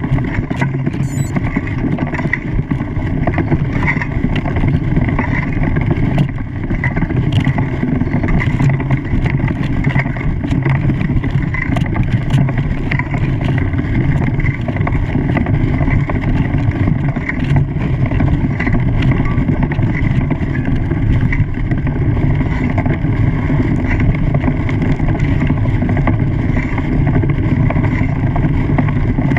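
Boat engine running steadily at constant speed, a continuous low drone with water and wind noise over it.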